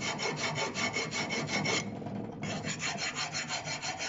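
Hand file rasping back and forth on a brake pad's friction material, widening the slot in its middle to cure brake squeal. Quick, even strokes, about six a second, with a brief pause about two seconds in.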